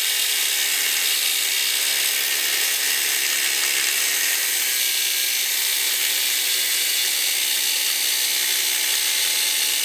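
Angle grinder cutting metal: a steady, high-pitched grinding hiss with the motor's hum underneath, running without a break.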